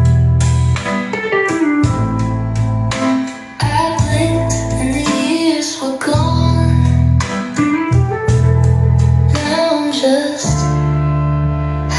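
A song with a singing voice, plucked guitar, strong bass and percussion, played back through PSB Image 5B bookshelf speakers.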